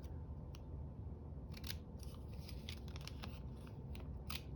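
Scissors snipping paper in a run of short, irregular cuts, making a jagged edge for a paper bird's tail.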